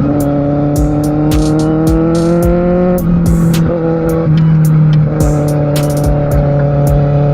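Kawasaki Z750R's inline-four engine heard on board under way. It rises steadily in pitch for about three seconds, drops abruptly at a gear change, dips again about a second later, then pulls on, slowly rising.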